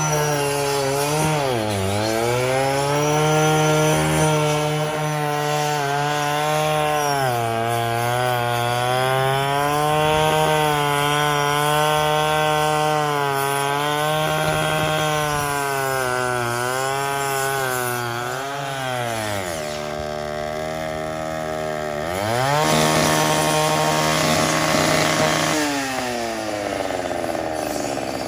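Power saw running and cutting through the boat lift pipe. Its motor pitch sags under load and recovers several times, dropping away at about 20 seconds and revving back up about 22 seconds in.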